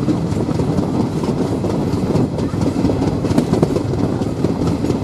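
Passenger train running slowly, heard from on board: a steady rumble with the clack of wheels over rail joints.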